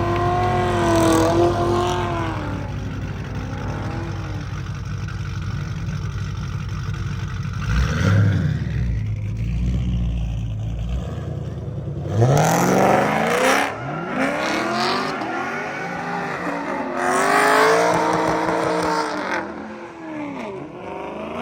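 Car engines revving up and down, with one engine accelerating hard about twelve seconds in.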